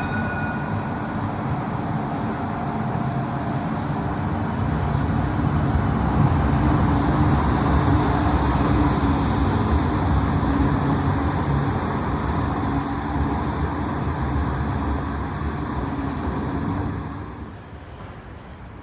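Light rail tram running past with a steady rumble that swells in the middle and drops away sharply near the end.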